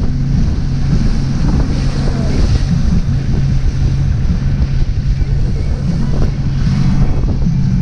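Boat motor running steadily with a low hum while underway, with wind buffeting the microphone and water rushing past the hull.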